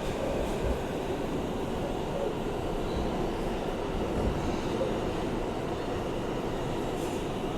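Interior of an R160A-2 New York subway car in motion between stations: a steady rumble of wheels on rail and car running gear, with a few faint low thumps.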